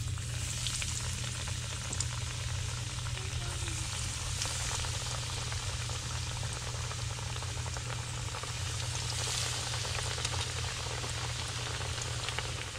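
Battered walleye fillets deep-frying in a skillet of hot oil: a steady sizzle with fine crackling as the pieces go in. A steady low hum runs underneath.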